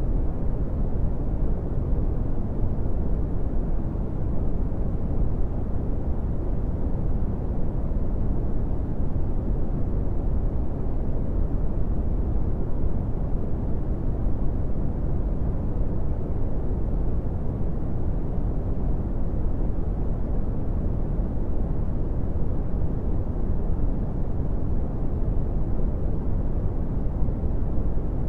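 Steady brown noise: an even, deep hiss, heaviest in the bass and thinning toward the top, with no tones or changes.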